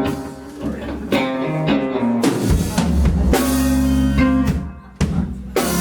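Live band playing: guitar with drum kit, the drums and bass coming in fuller about two and a half seconds in.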